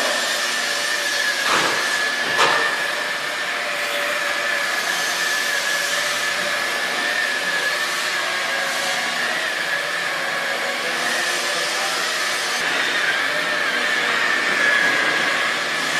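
Electric polisher with a red foam pad running steadily at slow speed, 1,000 RPM or less, buffing polish on a clear-coated wooden tabletop: a constant motor whine with pad friction. A couple of light knocks about two seconds in.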